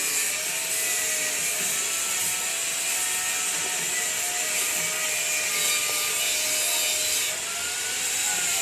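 Steady workshop machine noise: a continuous high hiss with a faint wavering whine underneath.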